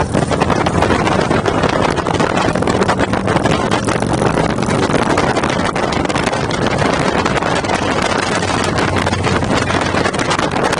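Motorcycle engine running at a steady speed under heavy wind noise buffeting the microphone, a constant low hum beneath a loud rushing crackle.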